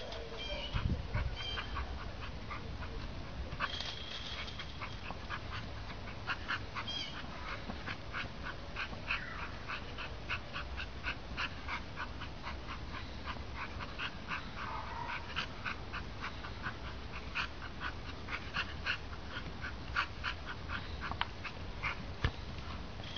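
A dog playing with a ball: a long run of light, quick taps, about two or three a second, with a couple of brief whines.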